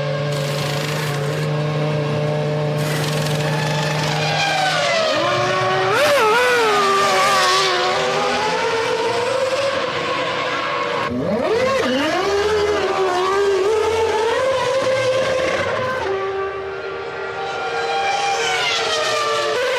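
1999 Formula One cars' V10 engines at high revs. The pitch sweeps up and down with gear changes, braking and acceleration, and the sound changes abruptly several times as it switches from one car to another.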